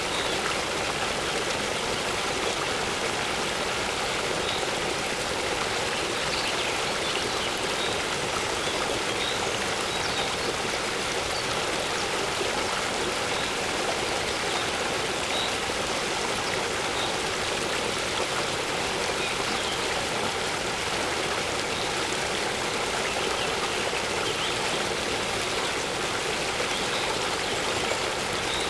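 Waterfall running steadily, with faint short high bird chirps here and there.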